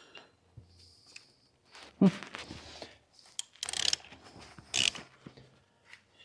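Hand tools and metal parts being handled on a 7.3 Power Stroke diesel's rear crank seal housing: one sharp metal knock about two seconds in, then bursts of scraping and clattering.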